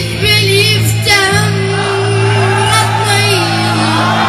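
A boy singing a long, held, wavering note with ornamented turns over a steady keyboard-style musical accompaniment.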